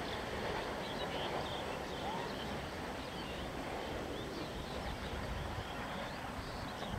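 Passenger coaches of an intercity train rolling along metre-gauge track, a steady rumble with wheels rattling on the rails. Short high chirps, like small birds, sound above it.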